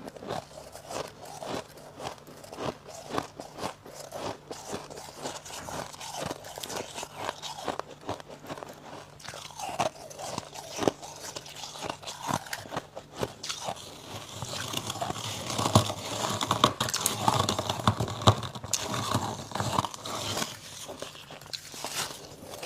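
Freezer frost being bitten and chewed close to the microphone, a run of crisp crunches. It turns to a denser, louder crunching about two-thirds of the way through, then eases off near the end.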